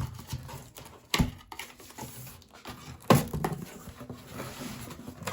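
Cardboard microwave box being opened and handled: rustling and small clicks, with two sharp knocks about a second and three seconds in.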